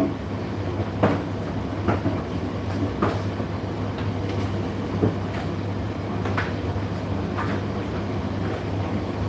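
Indesit IDC8T3 condenser tumble dryer running mid-cycle: a steady low motor and fan hum, with irregular knocks and clatters as the load tumbles in the drum.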